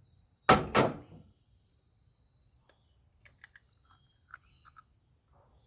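An egg being cracked: two sharp taps on a hard edge, close together, about half a second in. Faint small clicks follow, with a bird chirping in the background.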